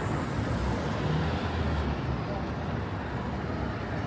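City street ambience: road traffic passing with a steady low rumble.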